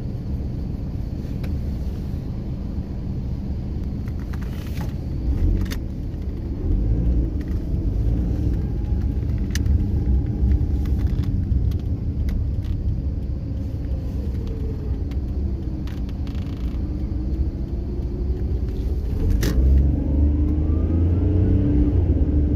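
Car driving, heard from inside: a steady low engine and road rumble whose pitch rises and falls slowly as the car speeds up and slows, with a few sharp clicks.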